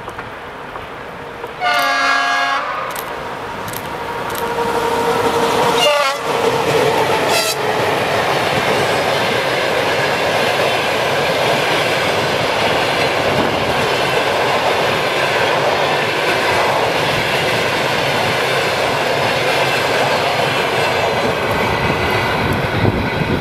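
Locomotive-hauled passenger train: the locomotive's horn sounds once for about a second, two seconds in. About six seconds in the locomotive passes, and then a long train of passenger coaches runs by with steady wheel-and-rail noise and clickety-clack, which stops abruptly at the very end.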